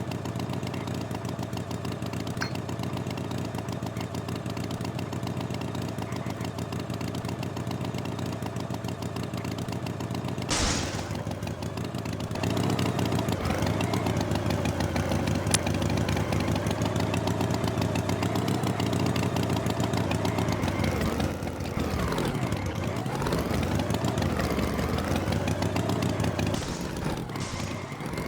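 An engine running steadily. It gets louder about twelve seconds in, and its pitch rises and falls for a while before it settles again near the end.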